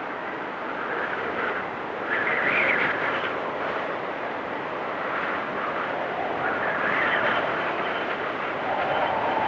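Blizzard wind gusting, a steady rushing that swells and eases every couple of seconds, with a faint high whistle near the end.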